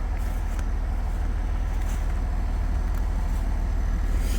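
International 1066 tractor's six-cylinder turbo diesel idling with a steady low rumble, with a few faint clicks over it.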